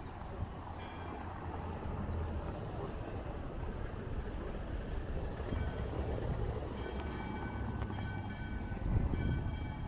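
Steady low rumble of a motor vehicle's engine, slowly getting louder, with a faint high steady whine over it near the end.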